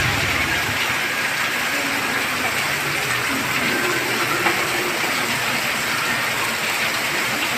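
Heavy rain pouring steadily, with runoff streaming off a roof edge.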